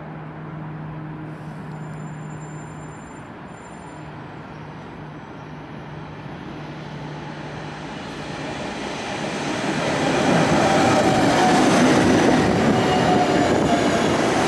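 A passenger train on the line through the station, quiet and steady at first, then growing louder from about eight seconds in as it comes close and runs by loudly for the last few seconds.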